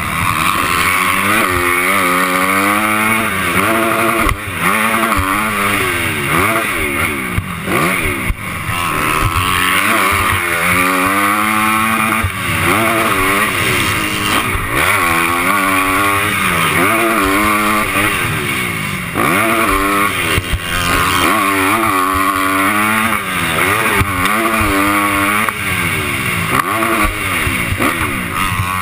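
Honda 250 motocross bike engine revving hard and easing off over and over, its pitch rising and falling many times as the throttle is worked, heard close up from an on-board GoPro.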